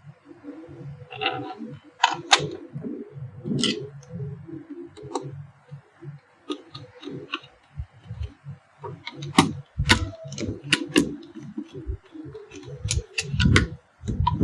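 Irregular clicks, taps and knocks of an electric iron's small metal and plastic parts being handled and fitted by hand, with a few sharper knocks in the second half.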